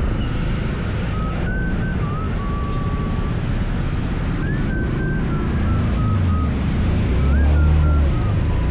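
Scooter riding on the street, its engine running under a steady wind rush on the microphone. A thin whine rises and falls in pitch several times.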